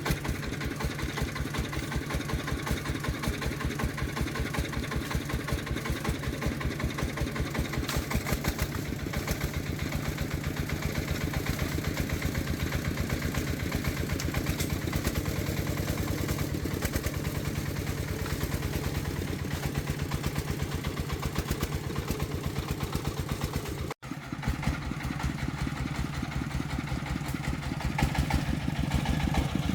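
Farm truck's single-cylinder diesel engine running steadily with an even, rapid chug. It breaks off for an instant about three quarters of the way through.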